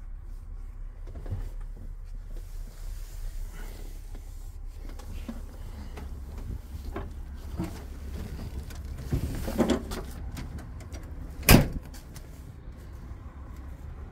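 Scattered metal clunks and knocks on a truck over a low steady rumble, with one sharp loud bang about eleven and a half seconds in, like a door or panel shutting.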